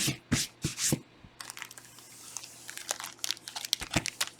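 Plastic trading-card packaging crinkling as it is torn open by hand. It starts with a few sharp, loud rips in the first second, followed by lighter, scattered crinkles.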